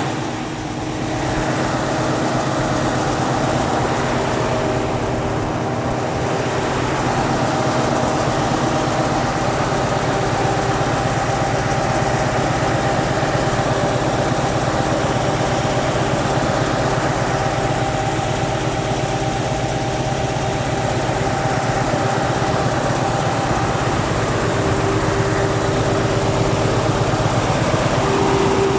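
8DVT-330 V8 turbo diesel engine running steadily.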